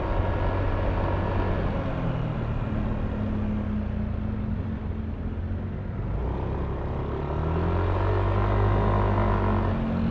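Yamaha Aerox V3 scooter's 155 cc single-cylinder engine running under way, with road and wind noise; the engine note eases a little in the middle and grows louder again in the second half.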